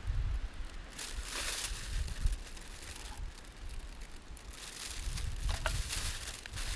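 Outdoor rustling and handling noise, with uneven low rumbling and a few small clicks.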